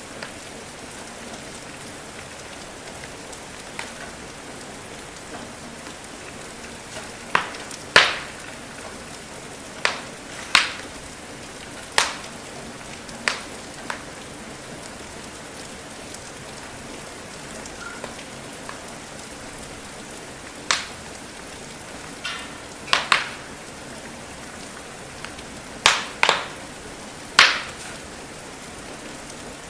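Steady rain hiss with a wood fire crackling over it: sharp, irregular log pops, about a dozen, each dying away quickly, the loudest about a third of the way in and near the end.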